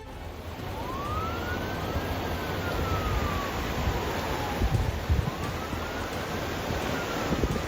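A siren wailing in two slow rise-and-fall cycles over a steady rushing noise, with a few low thumps near the middle.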